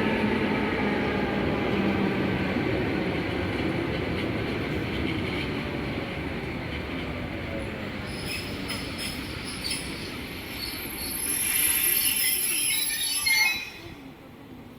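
EP2D electric multiple unit running along the track, its motor whine fading over the first several seconds. Wheel squeal and clatter follow, and the sound drops off abruptly near the end.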